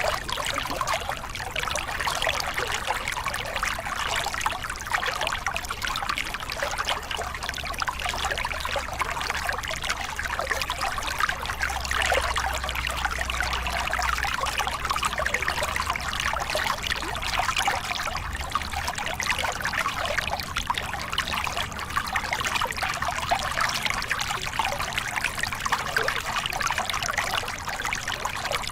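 Small river cascade: water splashing and burbling steadily over rocks.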